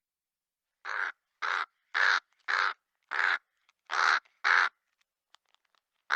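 A bird giving a run of short, harsh calls, about two a second, then one more after a pause near the end.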